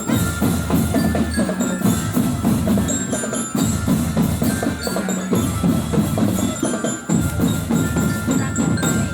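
Marching drum band playing: drums beating a steady rhythm under a melody on mallet bells such as a bell lyra or glockenspiel. The music cuts off abruptly at the very end.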